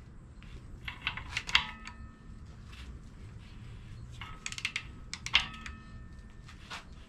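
Ratchet wrench clicking in two short bursts as the engine is turned over by hand, with brief metallic ringing after the clicks.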